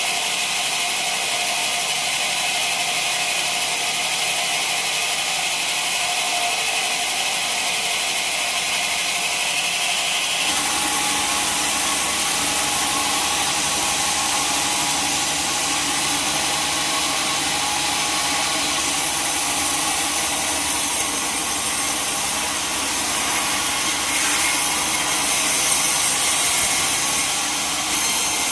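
Sawmill saw cutting through timber: a steady, loud machine noise. It changes abruptly to a fuller, lower sound about ten seconds in and swells briefly near the end.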